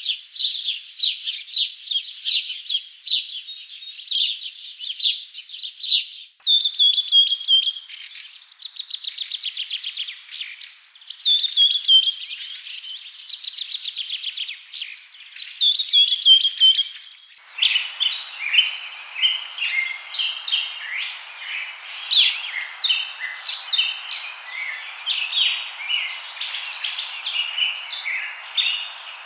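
Small songbirds chirping and singing in three spliced recordings. First comes a dense run of high chirps, then several rapid trills that slide down in pitch, and from a little past halfway, varied chirps over a steady background hiss.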